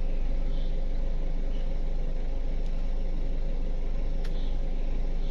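A Toyota Avanza's engine idling steadily, heard from inside the cabin, with a faint click about four seconds in.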